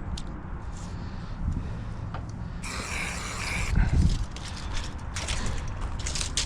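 A marking-paint spray can hissing once for about a second, about three seconds in, as the walkway outline is sprayed on the ground, over a steady low rumble and scattered light clicks.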